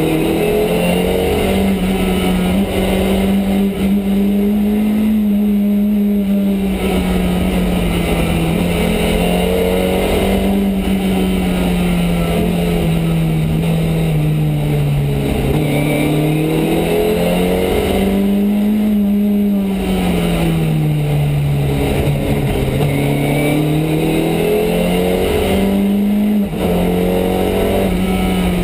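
Ford Escort Mk2 rally car's 2.4-litre Pinto four-cylinder engine, heard from inside the cabin, revving hard and rising and falling in pitch over and over through acceleration and gear changes.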